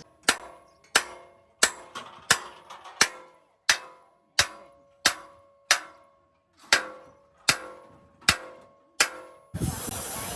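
Hammer striking steel truck bodywork, about thirteen ringing metallic blows at a steady pace of roughly one and a half a second. Near the end a steady hiss takes over.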